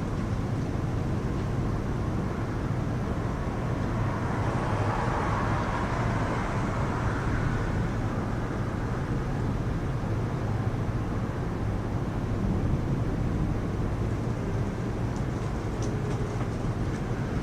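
Heavy rain falling steadily, under a constant low rumble, with the noise swelling for a few seconds a few seconds in.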